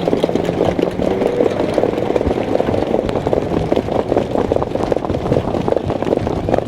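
Continuous rush of movement and wind noise on a rider's body-worn microphone while working a racehorse, with a constant patter of quick thuds. A faint steady engine-like hum sits under it in the first second or so.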